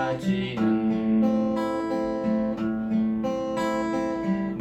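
Acoustic guitar fingerpicked in a three-beat waltz arpeggio, with a voice singing one drawn-out line of the song over it.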